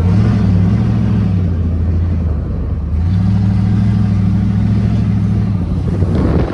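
A truck engine revved and held at high revs twice, with a short dip between, then letting off near the end.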